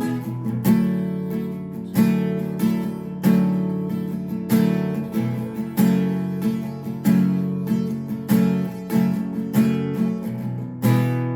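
Acoustic guitar strummed in a steady rhythm with no singing, the chords ringing on and a strong accented strum about every 1.3 seconds.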